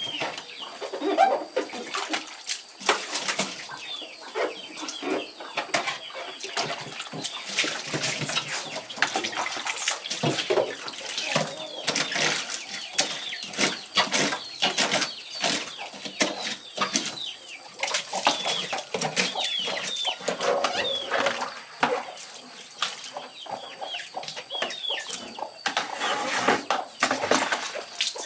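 Chickens clucking, with chicks giving short high falling peeps again and again, over frequent knocking and clattering.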